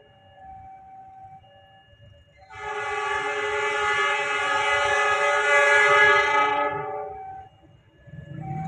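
Train horn sounding one long blast of about five seconds, several notes at once, starting a couple of seconds in, with a fainter horn tone before it.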